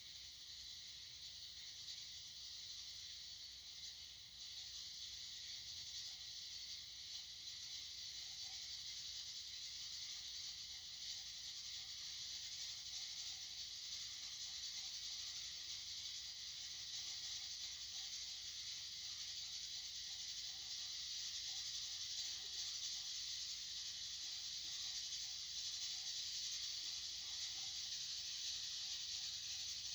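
Steady high hiss of white noise, slowly getting louder.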